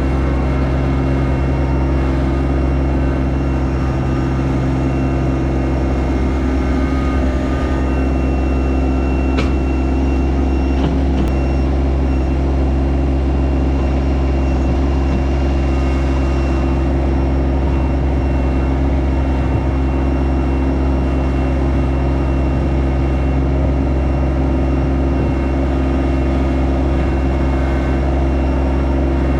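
Yanmar SA324 compact tractor's diesel engine running steadily at a constant speed.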